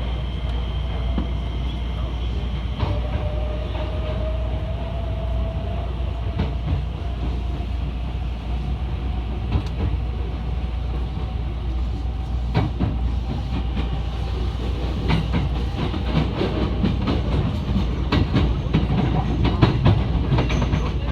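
Electric commuter train running, heard from inside the carriage: a steady low rumble with a thin motor whine that slowly rises in pitch, and wheels clicking over rail joints, more often in the second half.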